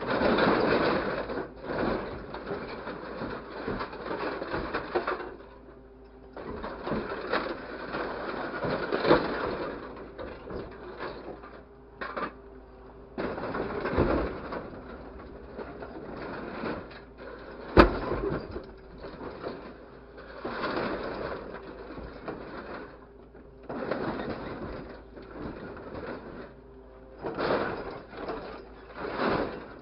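Bursts of mechanical rattling and clicking, each a few seconds long with short pauses between, over a faint steady hum. One sharp click about eighteen seconds in is the loudest sound.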